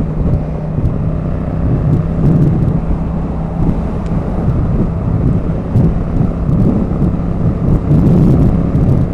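Motorcycle engine running at a steady cruising speed of about 57 mph, held by a cruise-control throttle lock, mixed with wind noise on the rider's microphone.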